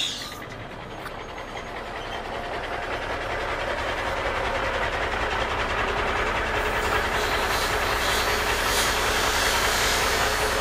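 A steady rumbling vehicle noise, like a heavy truck running, that builds up over the first few seconds and then holds, after a short sharp click at the very start.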